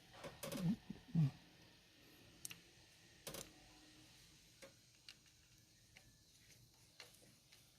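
A few scattered light clicks and taps of hand tools against the valve train of a Mitsubishi 4D56 engine during valve clearance adjustment, each one short and separate.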